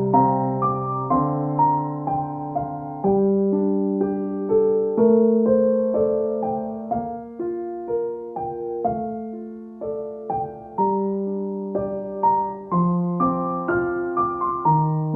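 Background music: slow, gentle piano notes and chords, each struck and left to fade.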